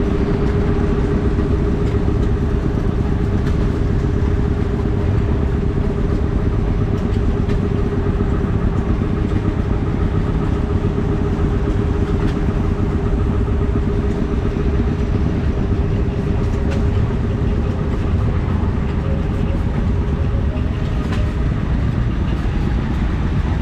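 Stationary engine running steadily, with a fast even beat and a constant hum.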